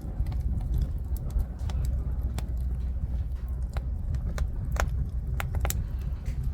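Wood fire of jujube (대추나무) logs burning, crackling with sharp, irregular pops over a steady low rumble.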